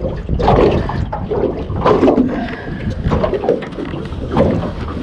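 Water sloshing and splashing in uneven surges over a steady rumble of wind on the microphone.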